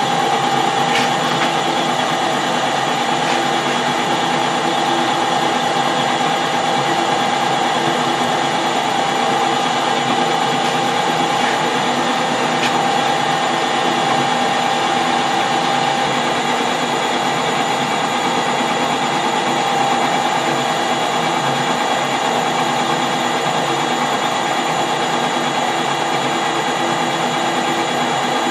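Metal lathe running steadily while it takes a 20 thou turning cut on a half-inch bar: a constant machine hum with a steady whine.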